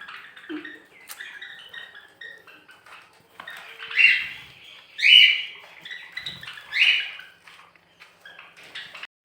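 Many small cage birds chirping and chattering in an aviary, with three louder shrill calls about four, five and seven seconds in.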